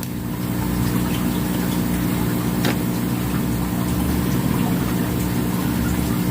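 A steady low machine hum made of several even tones, with a faint click about two and a half seconds in.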